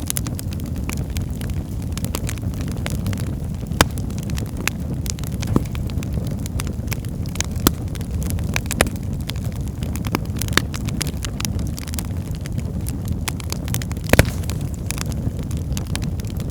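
Wood fire burning in a fireplace: a steady low roar of flames with constant small crackles and a handful of louder pops, the sharpest one near the end.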